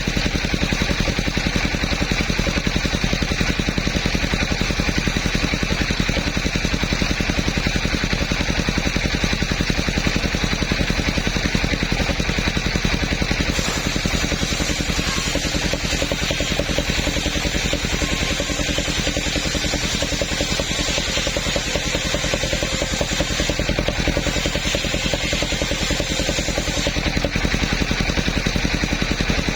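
Engine of a mobile sawmill running steadily at constant speed, with a harsher hiss joining it for a long stretch in the middle.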